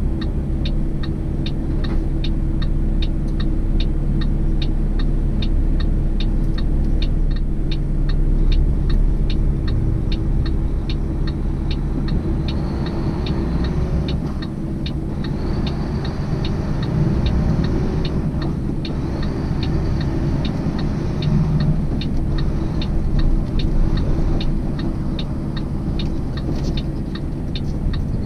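Inside a semi truck's cab: the engine and road noise rumble steadily while the turn signal ticks in a quick, even rhythm, clearest in the first half.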